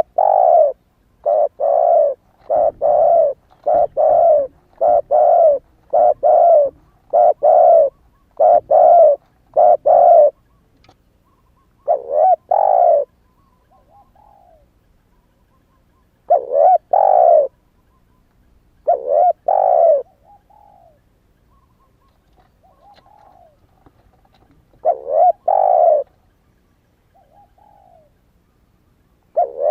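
Spotted dove cooing: repeated low coo notes, a quick run of them over the first ten seconds, then spaced-out phrases with softer, fainter coos in between. The bird is a young male that has just begun to coo.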